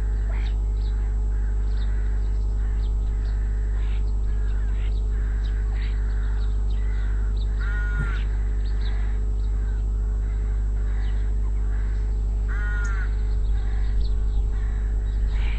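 Crow cawing twice, about eight and twelve and a half seconds in, over a steady stream of short chirps from smaller birds. A constant low hum runs underneath.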